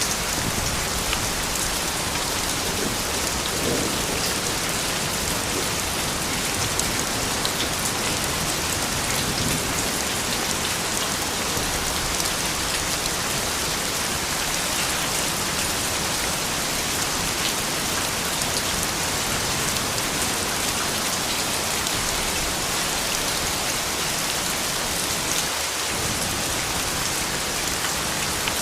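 Soft rain falling steadily: an even hiss with scattered drops ticking through it.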